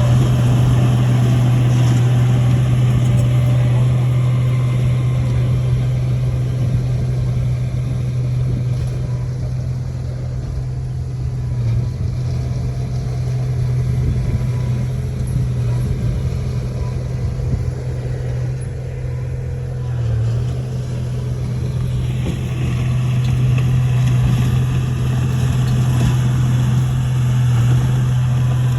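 Bulldozer's diesel engine running steadily with a deep, even drone, easing off a little in the middle and picking up again near the end.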